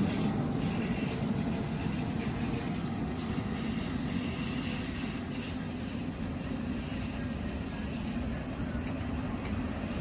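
Passenger train at the station giving a steady low rumble with hiss, slowly easing in level.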